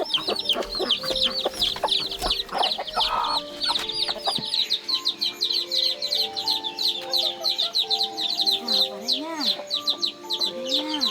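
Birds chirping in a dense, rapid stream of high calls, many a second, over background music with long held notes.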